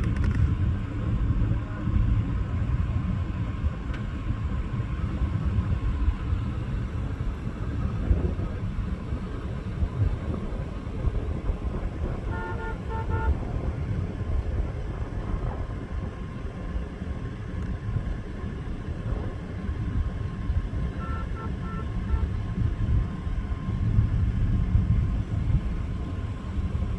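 Steady low rumble of a vehicle running, with wind on the microphone. It is broken twice, about halfway through and again near the end, by a quick series of short horn beeps, the kind used to call or hurry cattle during a drive.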